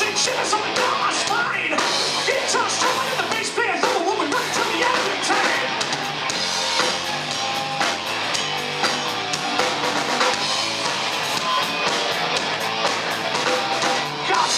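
Rock band playing live, with drum kit and guitar, in an instrumental passage with no singing.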